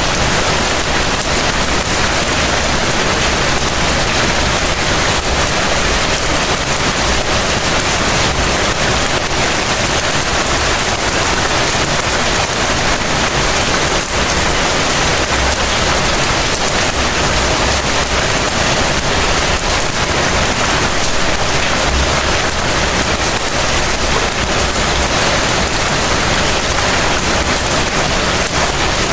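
Heavy rain falling steadily, a dense even hiss of rain on surfaces with no let-up.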